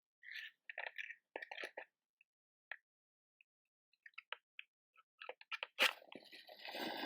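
Light clicks and taps of matches and a matchbox being handled, then near the end a match struck hard on the box, flaring with a hiss that lasts about two seconds.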